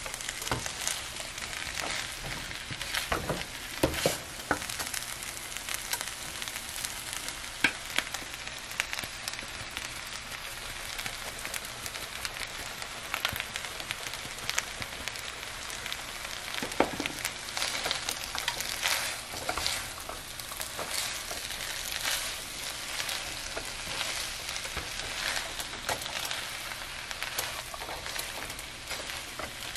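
Fried rice sizzling in a nonstick frying pan with a steady hiss. A silicone spatula stirs and turns it, making frequent light scrapes and taps against the pan.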